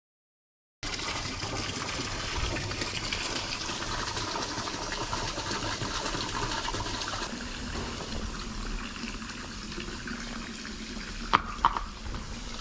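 Steady splashing flow of running water, starting about a second in, with two sharp knocks near the end.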